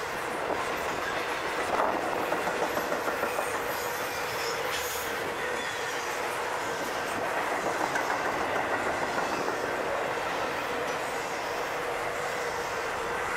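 Intermodal freight train rolling past, its wheels clicking over rail joints in quick regular runs over a steady rumble of cars, with a steady thin tone above it.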